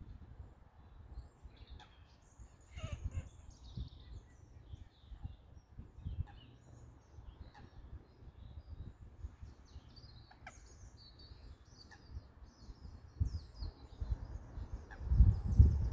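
Scattered high bird chirps and calls, with bursts of low rumble on the microphone that are loudest near the end.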